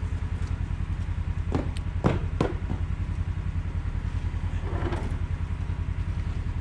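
Vehicle engine idling close by with a steady, fast low throb. A few sharp knocks come about one and a half to two and a half seconds in.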